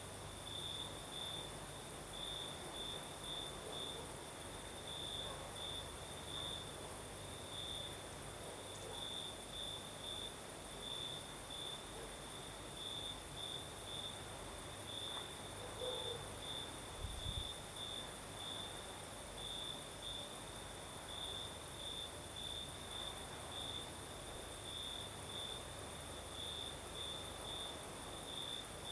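Crickets singing at night: a high chirp repeating about twice a second over a steady, higher-pitched insect trill, with a low rumble of night breeze underneath. A brief low thump about seventeen seconds in.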